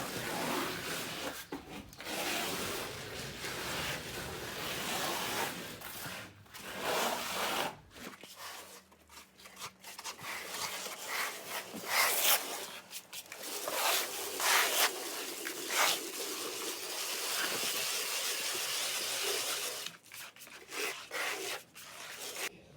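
Repeated, irregular scraping and rubbing strokes, each a short burst of noise.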